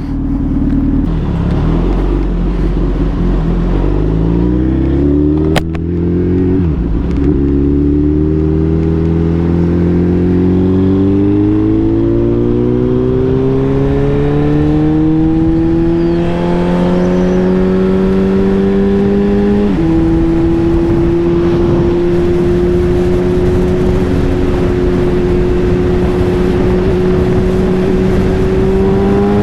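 Suzuki Hayabusa's inline-four engine pulling the motorcycle up through the gears. The pitch rises steadily, drops suddenly at an upshift about six seconds in and again at one about twenty seconds in, then holds almost steady at cruise over a rush of wind noise.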